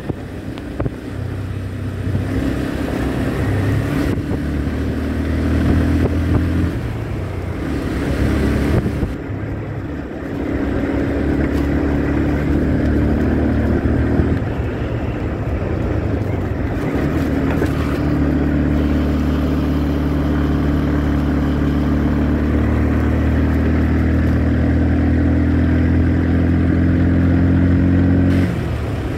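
Motorcycle engine running under way, holding a steady note for long stretches and changing pitch a few times, as with gear or speed changes.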